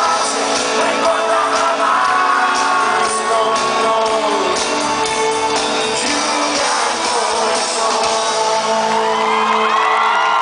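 Live rock band music with a lead vocal and drums, recorded from within the audience, with the crowd shouting and whooping over it.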